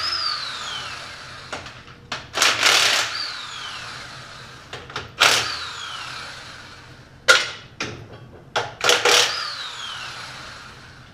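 Sharp metal strikes on a 350 small-block Chevy engine during teardown, seven or eight of them at uneven intervals, several leaving a ringing note that falls in pitch.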